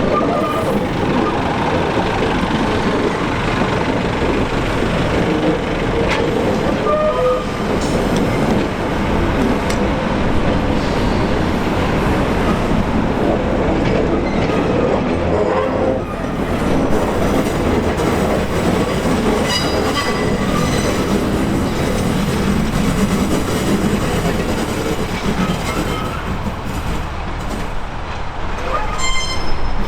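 Railway train moving on the rails: a steady rumble with clicks from the wheels and brief high squeals about seven seconds in and again around twenty seconds in.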